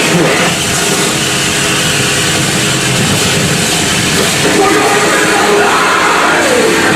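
Harsh noise music: a loud, unbroken wall of distorted noise across the whole range, with wavering squealing pitches and a few sliding tones through it.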